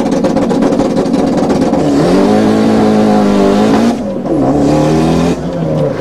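Car engine at high revs accelerating hard, its pitch climbing and then dropping at a gear change about four seconds in and again about five and a half seconds in.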